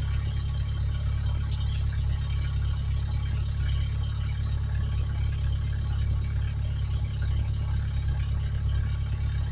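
1991 Ford Ranger's engine idling steadily, a constant low hum with no revving.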